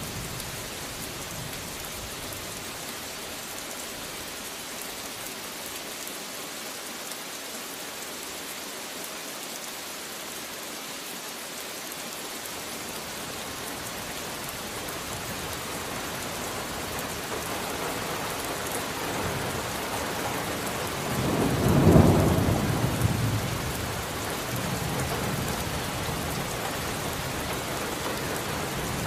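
Steady heavy rain, with a long rumble of thunder that swells to a loud crack about 22 seconds in and rolls away over the next couple of seconds.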